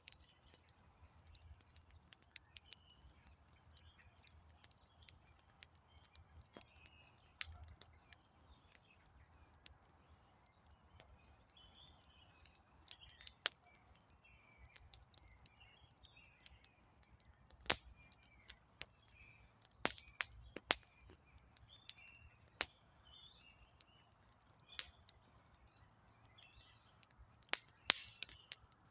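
Wood campfire crackling: irregular sharp pops and snaps from the burning logs, a few of them much louder, over a soft steady hiss. Birds chirp faintly in the background.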